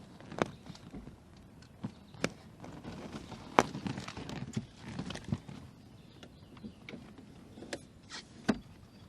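Irregular clicks and knocks of fishing gear being handled in a boat, with a busier run of small knocks midway and the sharpest knocks about three and a half seconds in and near the end.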